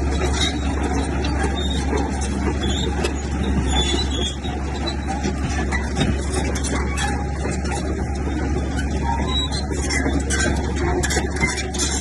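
Heavy diesel earthmoving machinery running steadily, with a constant low drone.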